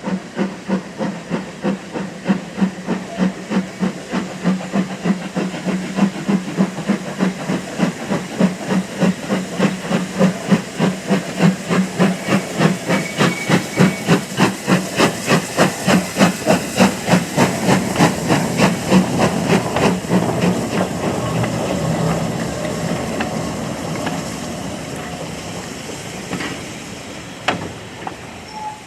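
Steam locomotive working past with regular chuffs of exhaust, the beats quickening a little and loudest mid-way, then fading into a steady hiss and rumble as it draws away. A single sharp knock near the end.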